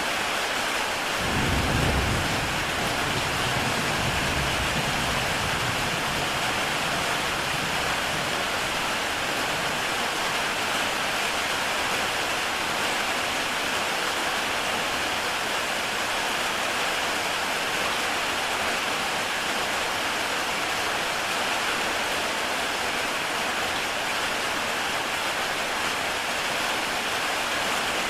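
Heavy rain on a tile roof, a steady even hiss, with a low rumble of thunder about two seconds in that fades over the next few seconds.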